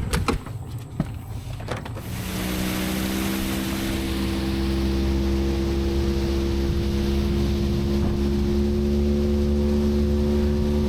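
A river boat's outboard motor running steadily under way, with the rush of wind and water over it. A few knocks and clatters come before the engine comes in, about two seconds in.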